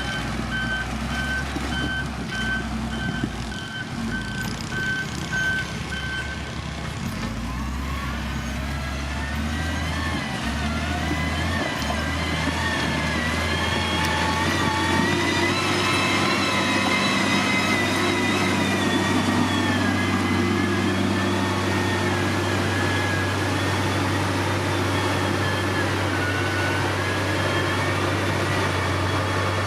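Heavy diesel construction machine running, its reversing alarm beeping evenly for about the first six seconds. After that the engine note rises and wavers over a steady low drone.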